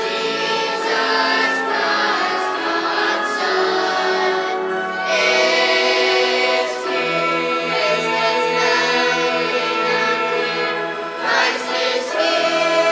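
A choir singing with instrumental accompaniment, holding long notes.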